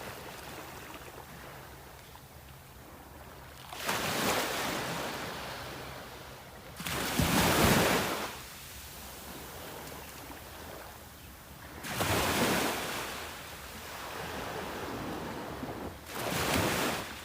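Sea waves breaking on the shore, four surges of surf that each swell and wash away over a second or so.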